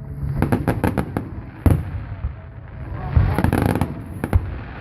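Aerial fireworks display: a rapid string of sharp bangs from bursting shells, the loudest about a second and a half in, just past three seconds and near the end, with a dense stretch of crackling a little past the middle.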